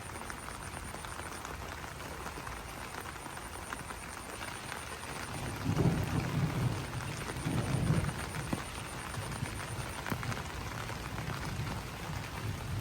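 Rain falling on broad banana leaves: a steady patter of many drops ticking on the leaves. Two louder low swells come a little past the middle.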